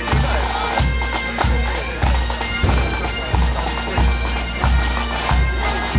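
Pipe band playing: bagpipes sounding a tune over their steady drones, with a bass drum beating evenly about one and a half times a second.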